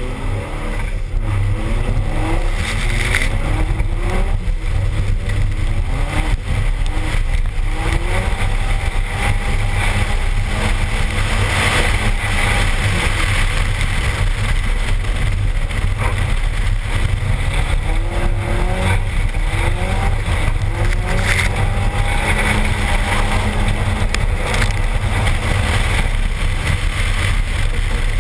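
Toyota RAV4's turbocharged 3S-GTE four-cylinder engine revving up and down repeatedly under hard driving, heard from a camera mounted outside the car. Heavy wind rumble on the microphone and the hiss of the tyres spraying slush run underneath.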